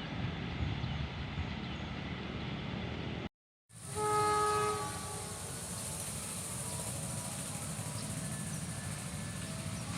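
Passing train, a steady rumble of wheels on rails. It cuts off abruptly a little over three seconds in; then a train horn blasts once, loud, for under a second, followed by steady running noise of the train.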